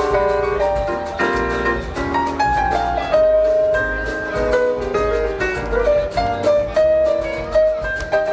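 Live jazz band playing an instrumental passage: a melody of changing, sometimes bending notes over bass and a light beat.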